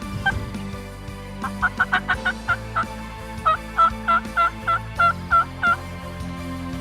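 Two series of about eight turkey yelps each, short even notes at roughly four a second, with background music underneath.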